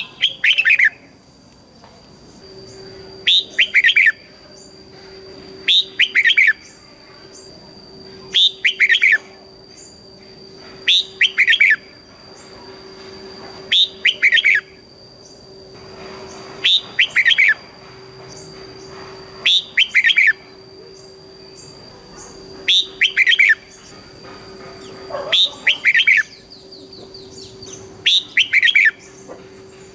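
Red-whiskered bulbul singing the same short phrase of quick gliding whistled notes over and over, one phrase every two to three seconds.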